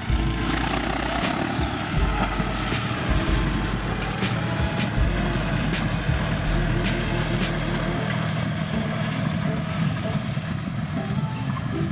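Tractor engine running under load, with sharp clicks and knocks through the first several seconds and a deep low rumble that drops away about eight seconds in.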